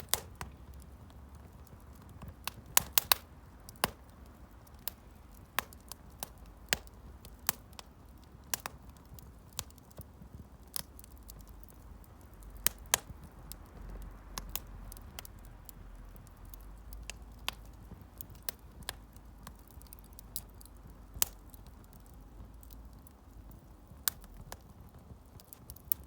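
Wood fire crackling in a fire-pit stand: irregular sharp pops and snaps over a low steady rumble.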